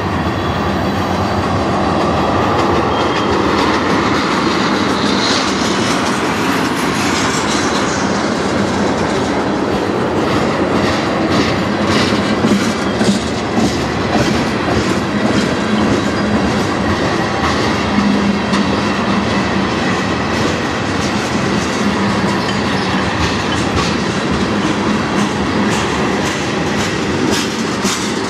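Freight train cars, covered hoppers then tank cars, rolling past at close range: a steady loud rumble of steel wheels on rail, with a rhythmic clickety-clack of wheels over rail joints growing plain from about ten seconds in.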